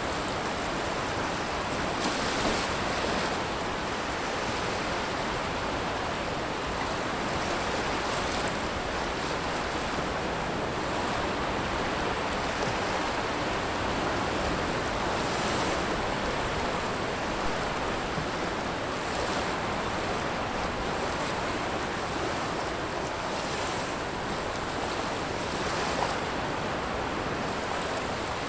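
Surf on a pebble beach: a steady rush of breaking waves and backwash, swelling briefly every few seconds.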